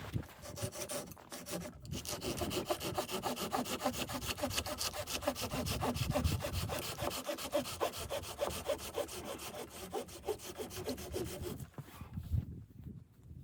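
Hand saw cutting through wood in a steady run of rapid back-and-forth strokes, stopping shortly before the end, followed by a single low knock.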